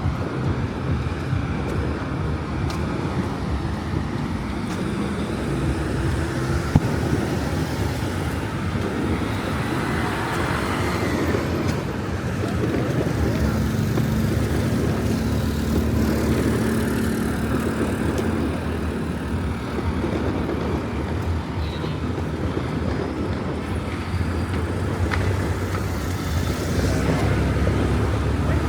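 Street traffic noise: vehicle engines running and passing steadily, with a held engine hum through the middle and a single sharp pop about seven seconds in.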